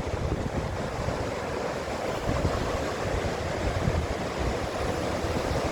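Steady ocean surf washing below a headland, with wind buffeting the microphone in irregular low rumbles.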